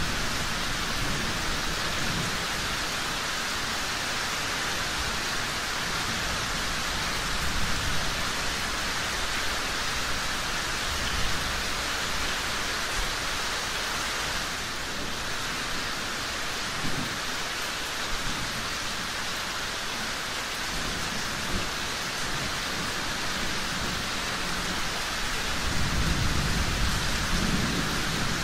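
Steady rain falling, with a low thunder rumble that swells near the end.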